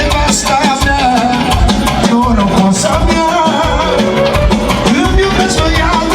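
Instrumental break in Romanian lăutari band music: a fast, ornamented melody over a steady dance beat with drums.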